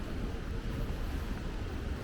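Steady low rumble of city street ambience, with distant traffic.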